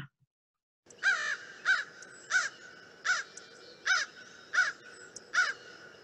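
Recorded American crow cawing, played back: a steady series of seven short caws about 0.7 seconds apart, starting about a second in.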